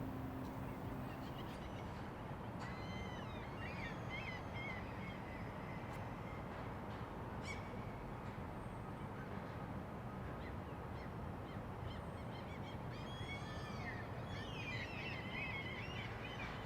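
Wild birds calling in scattered bursts of short squawks: a cluster a few seconds in, a single call near the middle and a longer flurry near the end, over a steady hiss of outdoor background noise.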